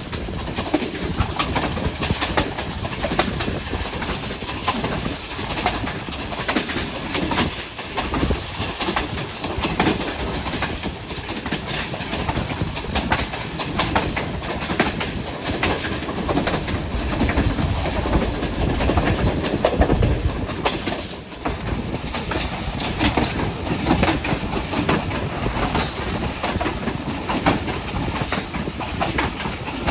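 Passenger train running along the track, its wheels clattering over the rail joints under a steady, noisy rumble, heard from on board the carriage.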